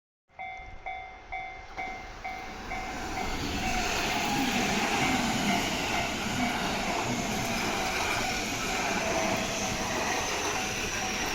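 A level-crossing alarm sounding its pulsing electronic bell about three times a second, then a train on the JR Kyoto Line passing the crossing, its running noise building from about three seconds in and drowning the bell, with a high whine that falls slowly.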